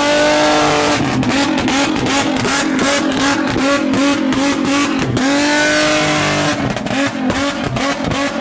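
Car engine revved hard over and over through a loud exhaust, its pitch swinging up and down with one deep drop and climb about five seconds in, and a rapid crackle of exhaust pops running through the revs.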